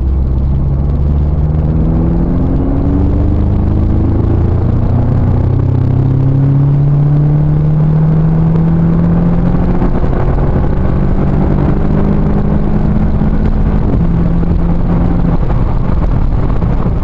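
2014 Audi S3's 2.0 TFSI turbocharged four-cylinder under hard acceleration, its note climbing slowly in long stretches and stepping down in pitch at upshifts of the six-speed automatic, as the car is driven at high speed.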